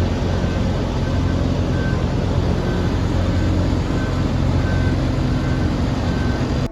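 Small plot combine harvester's engine running steadily, with a faint high beep repeating a little more than once a second.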